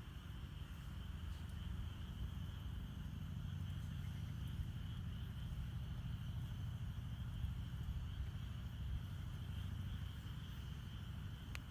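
A wood campfire burning with a low rumble and a few faint crackles, one sharper snap near the end, over a steady high chirring of night insects.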